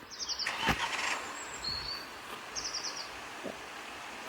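A small bird chirping outdoors: two quick high trills of four or five notes each, a couple of seconds apart, over steady background noise. About two-thirds of a second in there is a brief rustle and a knock, as of toys being handled.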